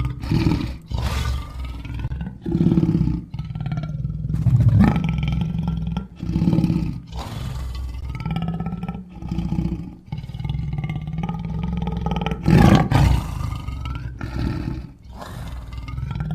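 Allosaurus dinosaur sound effects: a string of about a dozen short roars and growls, several with sliding pitch, over a steady deep rumble.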